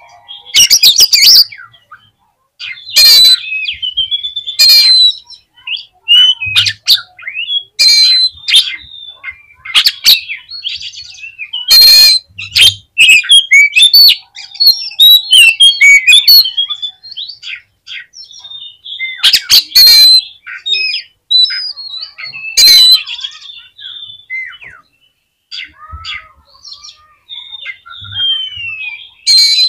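Oriental magpie-robin (kacer) singing a loud, varied song: clear whistled notes that glide up and down, broken by harsh rasping calls, in quick phrases separated by short pauses.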